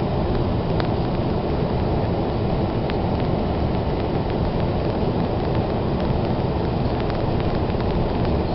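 Blizzard wind rushing steadily and loudly, with a few faint ticks, likely snow striking.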